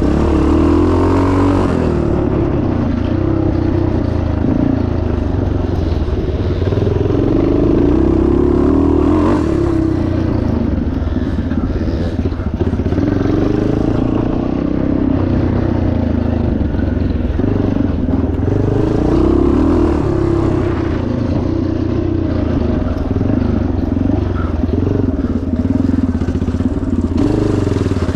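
1977 Yamaha TT500's single-cylinder four-stroke engine running hard off-road, the revs rising and falling over and over with the throttle.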